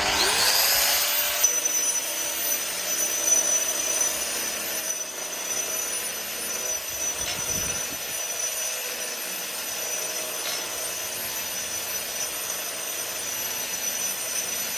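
Angle grinder with a diamond disc winding up to speed, then running steadily while it grinds brick to shape.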